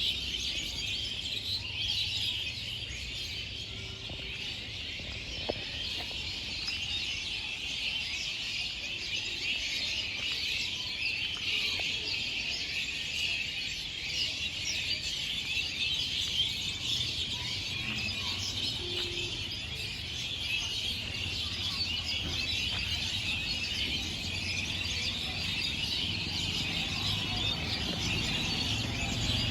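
A dense chorus of many small birds chirping and twittering together, a steady mass of short high calls with no single song standing out.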